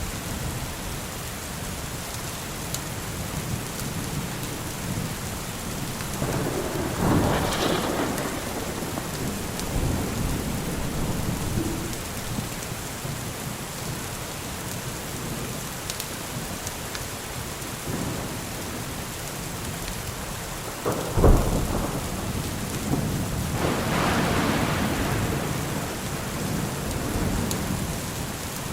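Steady rain with thunder: a rumble swells about six seconds in, a sharp thunderclap comes just after twenty seconds as the loudest moment, and another long rumble follows.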